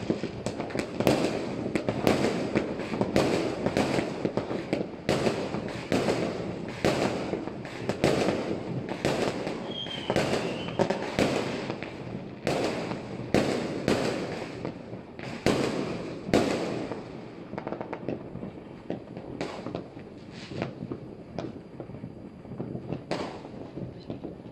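Fireworks and firecrackers going off all over the city, many overlapping bangs over a constant rumble of more distant explosions. The bangs come thick and fast for the first two-thirds, then thin out, with a short whistle about ten seconds in.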